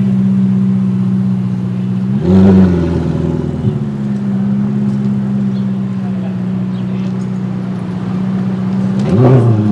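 A car engine idling steadily, with two throttle revs: one about two seconds in that holds for a second or so, and a short sharp blip near the end.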